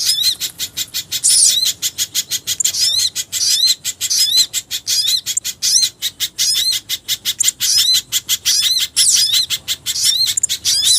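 Bird-lure recording mixing pijantung gunung (spiderhunter) and jingjing batu calls: a fast, continuous run of high chirps, several a second, with short rising-and-falling whistled notes repeating about once a second.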